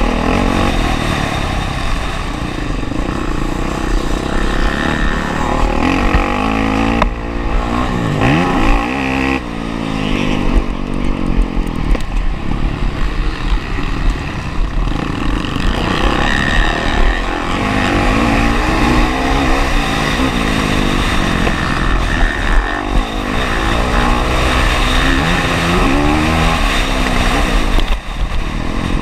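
Honda CRF450R's single-cylinder four-stroke motocross engine at race pace, revving up and dropping back again and again as it accelerates, shifts and brakes around the track.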